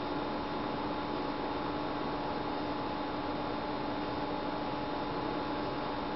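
Steady electrical hum with several fixed tones over a constant hiss, unchanging throughout: background room tone with no other sound.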